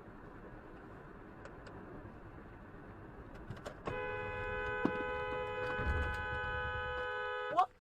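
Steady road and tyre noise from a moving car, then about four seconds in a car horn is held down, a steady two-tone blare lasting nearly four seconds that cuts off abruptly.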